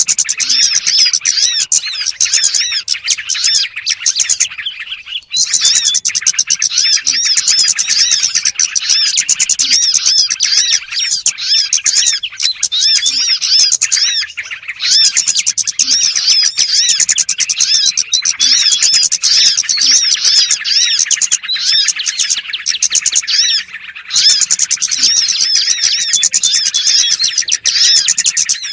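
A dense chorus of small birds chirping and twittering rapidly and without let-up, played as a lure call to draw small birds in. There is a short break about five seconds in.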